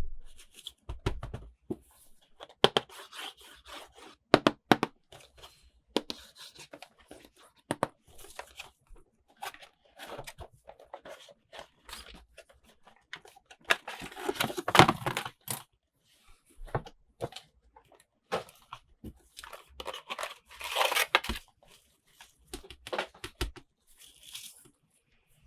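Toy packaging being opened by hand: irregular tearing, crinkling and clicking, with two longer, louder tearing stretches, about fourteen and twenty-one seconds in.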